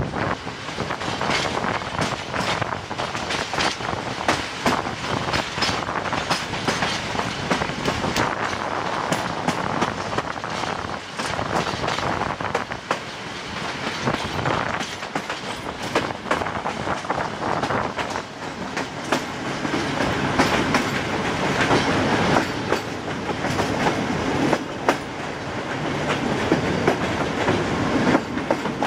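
A moving passenger train, hauled by a Class 60 Sulzer diesel locomotive, heard from a carriage window: steady running noise with the wheels clicking over rail joints.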